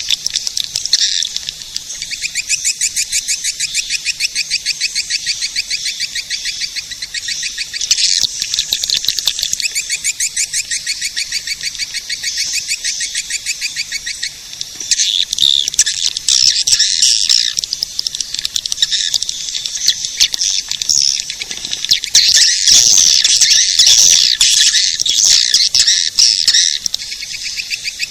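Swiftlet calls of the recording played to lure swiftlets into a nesting house: a dense, high-pitched chattering twitter of many rapid ticking chirps. It grows louder about halfway through and again near the end.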